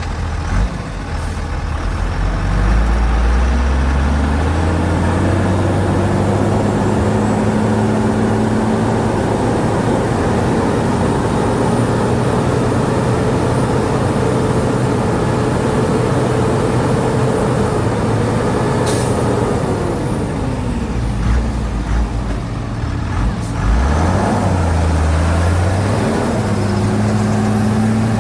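Diesel engine of a Shantui DH17C2 bulldozer revving up over a few seconds and holding high revs under load for about a dozen seconds. It then drops back and rises again near the end.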